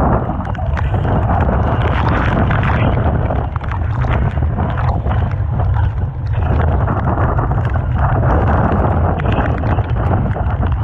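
Typhoon-force wind buffeting the microphone with a constant low rumble, over rough sea, with surges of crashing surf and spray that swell and fall back every few seconds.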